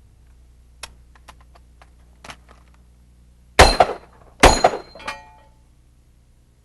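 Two loud shots from a large-frame double-action revolver, a little under a second apart: a controlled pair, each followed by a short metallic ring. A few light clicks and knocks of handling come before them.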